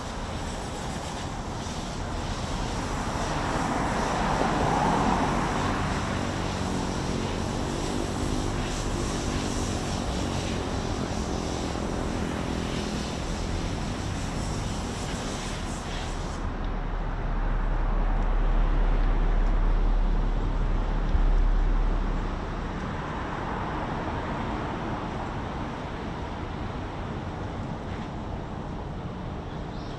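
Steady city traffic noise with vehicles passing, swelling twice and easing off, with a deep rumble building and fading a little past the middle.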